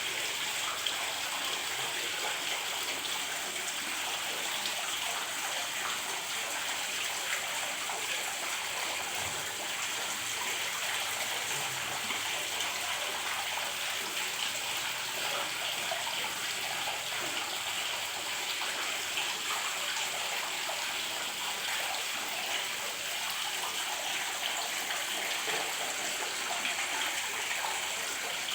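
Water from a small decorative artificial waterfall falling and splashing in a steady, even hiss.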